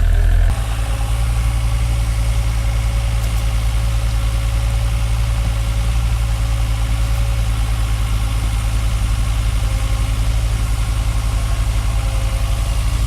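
Diesel engine of heavy earthmoving machinery running steadily at a low, even throb, with an abrupt change in the sound about half a second in.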